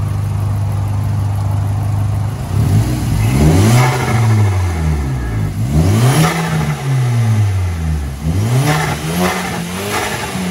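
Audi TT engine idling, then revved in a series of quick throttle blips from about two and a half seconds in, the pitch rising and falling with each blip.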